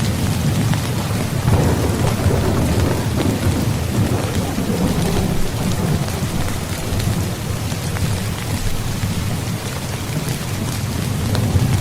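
Heavy rain falling steadily with a low, rolling rumble of thunder that swells in the first half.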